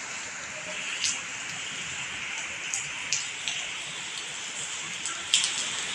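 Heavy rain falling as a steady hiss, with sharp taps of single drops now and then; the loudest tap comes about five seconds in.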